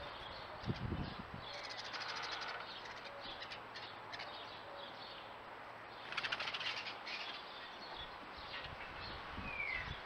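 Small birds at a garden pond: chirps and calls over a steady outdoor hiss, with brief flurries of wing fluttering as a bird flies in and flaps at the water's edge, and a short falling whistle near the end.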